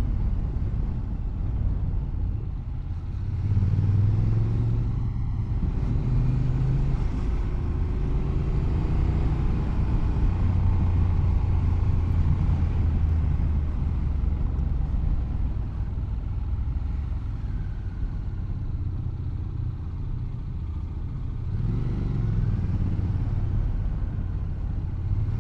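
Motorcycle engine running under way. Its note rises and falls with the throttle and gear changes through the bends.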